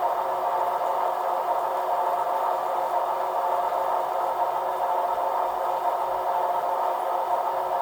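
Model railway locomotive L1165 running on a rolling road: a steady whir and rattle from its wheels on the rollers, with no change in speed.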